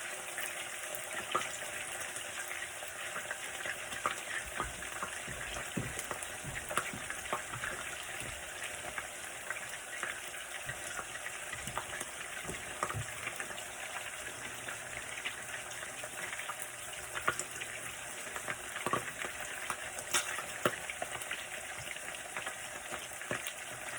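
Bird frying in hot grease: a steady sizzle with scattered sharp pops of spitting oil.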